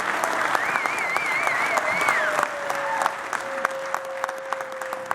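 Audience applauding, with many separate claps. A warbling high whistle sounds over the claps for about the first two seconds, then a single steady held note runs through the second half.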